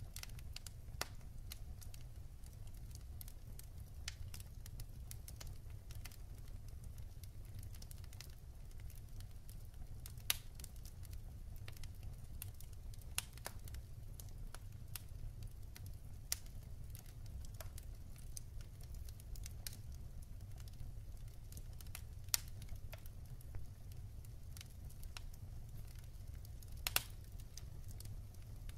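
Wood fire burning in a fireplace: a steady low rumble with scattered sharp crackles and pops from the burning logs, a few louder snaps standing out now and then.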